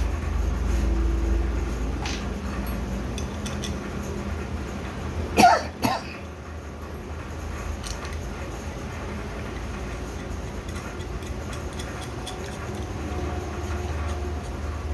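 A person coughs about five and a half seconds in, over a steady low hum and faint scattered clicks.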